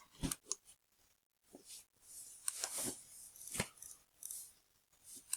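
Faint, scattered clicks and taps of a computer mouse and keyboard: a handful of separate short clicks spread over a few seconds, with short gaps between them.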